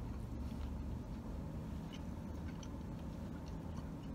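A mouthful of bacon cheeseburger being chewed, with small faint mouth clicks, over a steady low hum.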